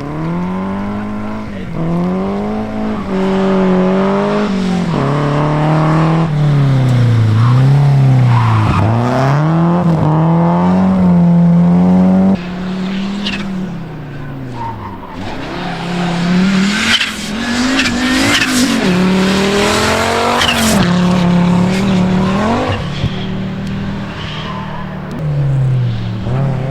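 Rally car engines at full throttle, the pitch climbing and dropping sharply again and again with gear changes and lifts off the throttle. There is a sudden drop in level about halfway through.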